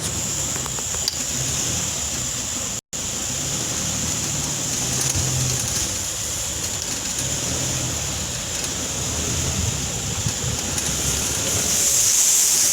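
Off-road vehicle engine running steadily as it drives on, with a constant hiss over it. The sound cuts out completely for an instant about three seconds in.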